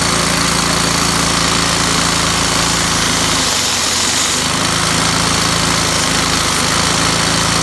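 Two-cylinder Lego vacuum engine running, with a loud, steady rush of air over a humming motor. The low hum drops out for about a second, some three and a half seconds in, then picks up again.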